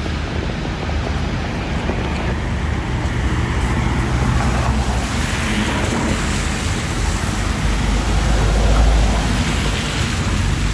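City road traffic noise: a steady wash of passing vehicles, with a deep rumble that swells to its loudest about eight to nine seconds in.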